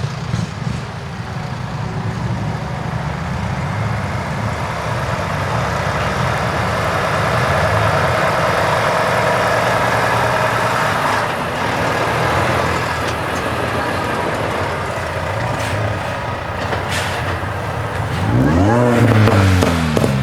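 Heavy truck engines running as trucks roll past. Near the end, one engine is revved briefly, its pitch rising and then falling.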